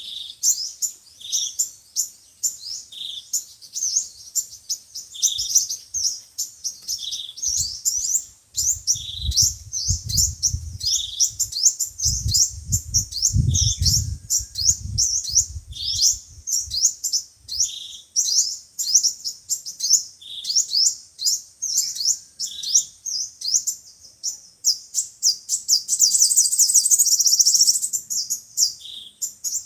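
Sunbird song: rapid, high, thin chirps and twitters, with a lower note repeated about every couple of seconds and a denser trill near the end. A low rumble sits under the song for several seconds in the middle.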